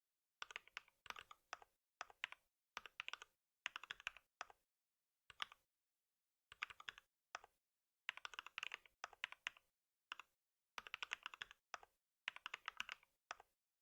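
Typing on a computer keyboard: quick runs of keystrokes broken by short pauses, with dead silence between the runs.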